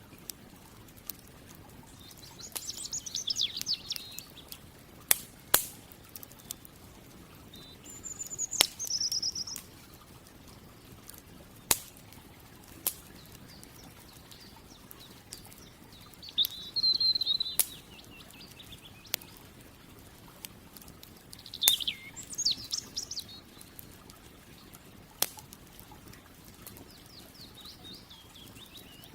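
A wood campfire crackling, with sharp pops every second or two. A songbird sings short twittering phrases about five times.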